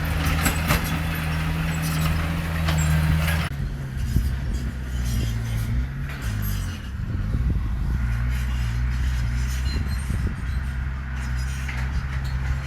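Heavy diesel engine of earthmoving machinery running steadily, with metallic clinking over it for the first few seconds. About three and a half seconds in, the clinking stops and the engine note drops lower.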